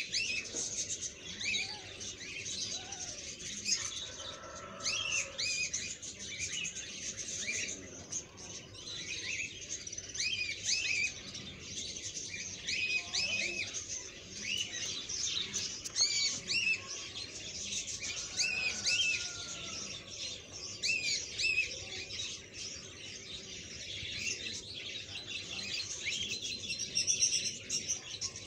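Small birds chirping continuously, many short rising and falling calls overlapping several times a second.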